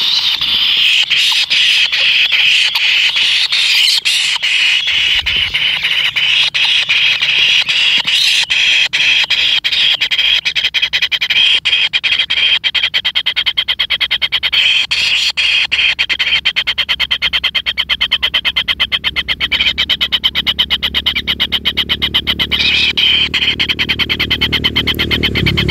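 Kingfisher nestlings in the nest giving a loud, unbroken, rapid buzzing churr, a fast train of pulses. A low rumble builds beneath it over the second half.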